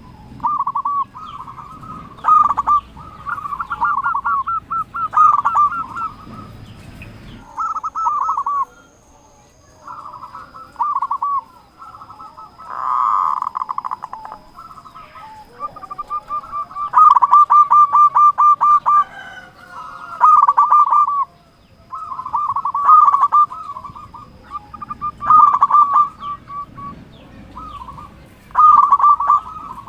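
Zebra doves (perkutut) cooing, a series of loud, rapid rolling coo phrases repeated every few seconds.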